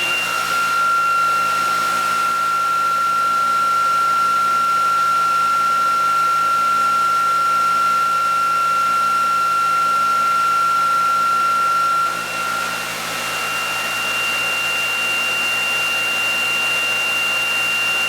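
Electric motor prototype spinning with a steady whir and a high whine. About twelve seconds in, the whine shifts to a higher tone and the level dips briefly, then it runs on steadily.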